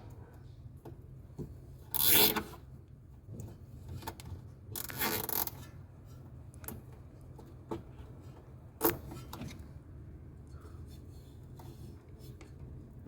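Hand work on washing-machine motor wiring: a short scraping, zip-like rasp about two seconds in, a longer scrape around five seconds, then a single sharp click near nine seconds, with small handling ticks over a steady low hum.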